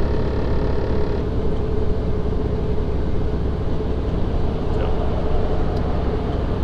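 Semi-truck cab noise: a steady low engine rumble with a constant drone.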